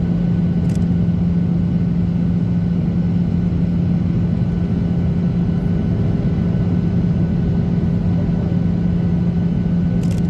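Steady in-flight cabin noise of a Boeing 737-800: the CFM56-7B engines' drone and the airflow rush, with a constant low hum and no change in pitch.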